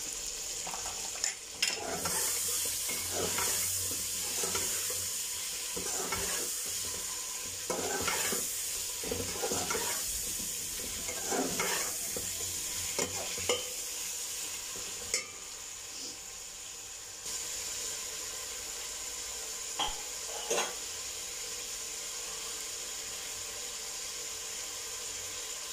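Chicken and masala sizzling in an aluminium pot while being stirred and scraped with a metal slotted spoon, the spoon clinking against the pot: the bhunai stage of frying the masala. The stirring strokes stop a little past halfway, leaving the steady sizzle with a couple of light clicks.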